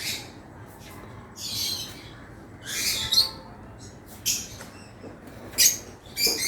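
African lovebirds calling with short, shrill, high-pitched chirps, about six calls spaced through, two close together near the end.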